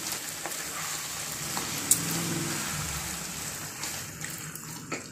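Raw chicken pieces sizzling in a pan of onion-tomato masala as they are stirred with a spatula, with a few sharp clicks of the spatula against the pan. The sizzle fades near the end.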